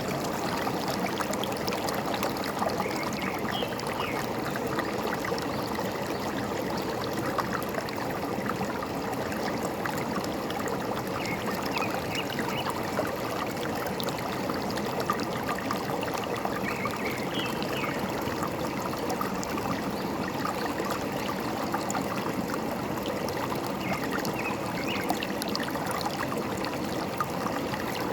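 Forest stream flowing steadily, with short bird chirps breaking through four times.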